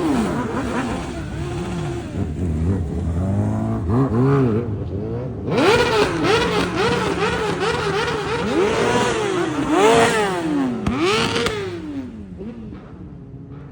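Motorcycle engines revving, the pitch rising and falling repeatedly. A quick run of throttle blips comes in the middle, with longer rev swells around it, and the sound dies down near the end.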